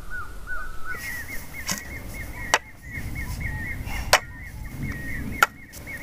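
A bird calling over and over, the same short note repeated about three to four times a second, stepping up to a higher pitch about a second in. Five sharp clicks cut across it.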